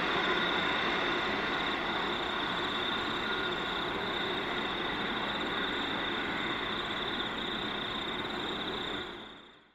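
Distant container freight train rolling along the rails, a steady rumbling noise with a steady high-pitched tone over it, slowly growing fainter. It fades out about nine seconds in.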